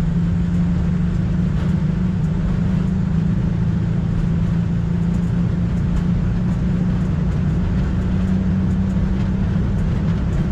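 Steady flight-deck noise of an Airbus A220-300 in flight: the even rush of air over the cockpit with a constant low drone beneath it.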